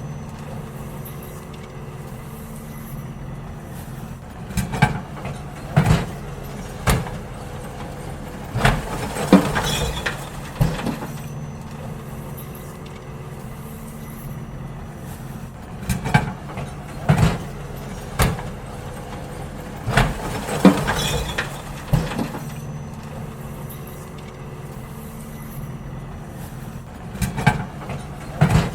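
Garbage truck engine running steadily while wheelie bins are emptied, with groups of sharp bangs and clatters from the bins and lids being tipped, three times over.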